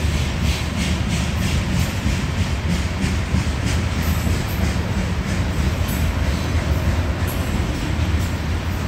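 Freight cars of a grain train (covered hoppers) rolling past: a steady low rumble with wheels clicking over rail joints.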